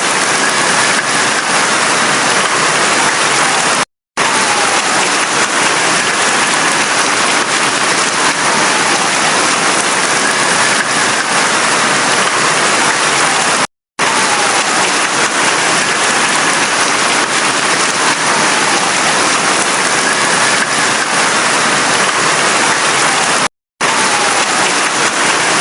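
Steady heavy rainfall, an even dense hiss of rain on surfaces. The sound cuts out completely for a split second three times, about every ten seconds, where the recording loops.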